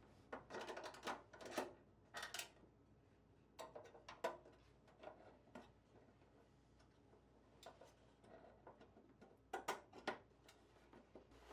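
Scattered light clicks and clinks of small metal parts and hand tools being handled while the pedal car is reassembled, in a few short clusters: during the first couple of seconds, around four seconds in, and near the end.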